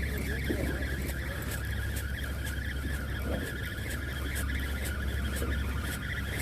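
Fishing boat's engine running steadily with a low hum, with a fine rapid ticking and sharp irregular clicks over it.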